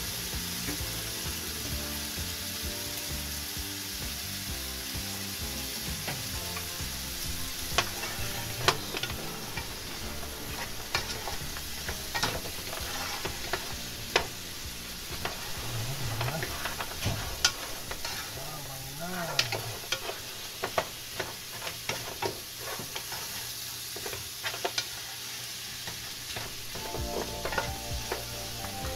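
Goat meat and tomatoes sizzling steadily in a frying pan. From about eight seconds in, a wooden spoon stirs the meat, knocking and scraping against the pan in irregular clicks.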